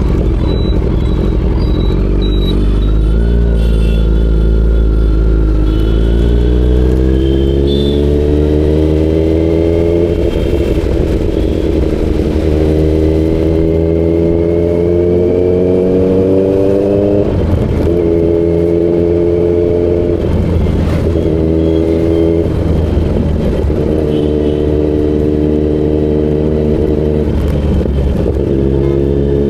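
Kawasaki Z900's inline-four engine under way, its revs climbing steadily through a long pull, then falling and rising again several times in quick succession as it shifts up through the gears.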